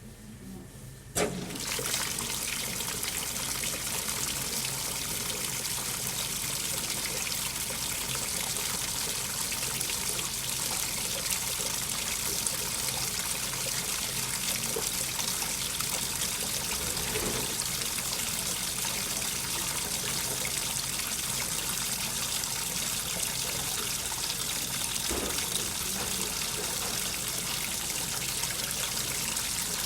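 AQUA coin-operated 5 kg washing machine with water running steadily through it. The flow starts abruptly with a click about a second in.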